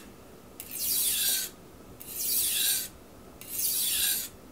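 Knife blade drawn in full-length strokes across a 1000-grit Miyagoshi sharpening stone, a rasping hiss three times about a second and a half apart, each stroke trailing off at its end. The strokes are working the burr over to the other side of the edge.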